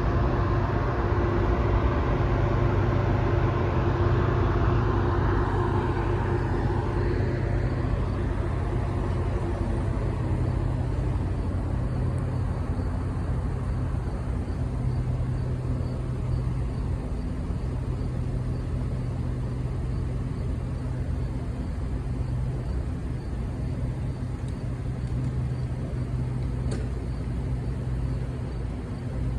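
GO Transit diesel locomotive running at the station with a steady low engine drone. It is louder and fuller for the first several seconds, then eases off.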